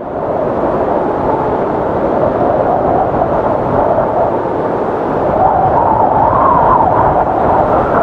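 Strong wind blowing steadily, with a faint whistling tone in it that rises and swells a little past the middle.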